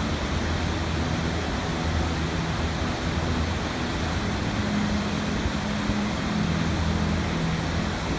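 Steady rushing of falling water, like a waterfall, with faint low sustained tones underneath.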